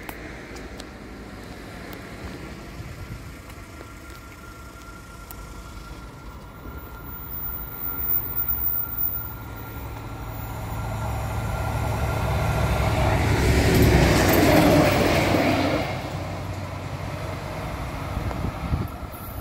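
A railway work train approaching and passing, its rumble and low engine hum building to a peak about two-thirds of the way through, then falling away quickly.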